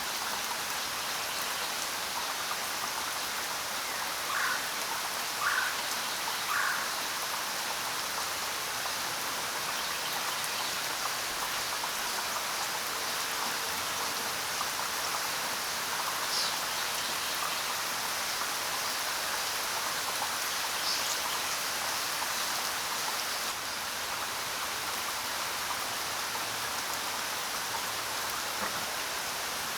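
Steady rain falling, an even hiss of drops throughout. A few short bird chirps come through the rain, three of them about a second apart early in the stretch and a couple of higher, thinner ones later.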